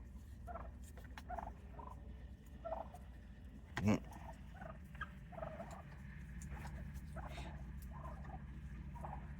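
A flock of wild turkeys calling with many short, separate calls, one every half second or so, over a steady low background hum. One louder, sharper sound stands out about four seconds in.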